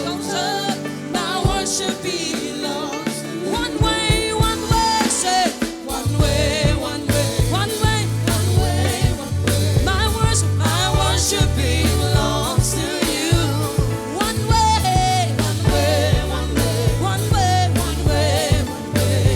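Gospel worship song played by a live band with singing and drums; the bass gets fuller and heavier about six seconds in.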